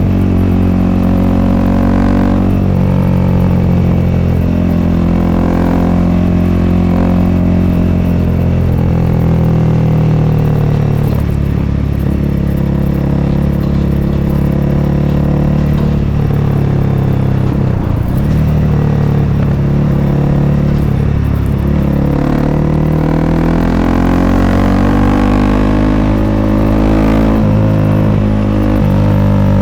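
Honda CRF300L's single-cylinder four-stroke engine through an aftermarket FMF Q4-style exhaust, running under way. Its pitch drops around ten seconds in, holds fairly steady, then rises from about two-thirds of the way through, with a brief dip near the end as the rider shifts.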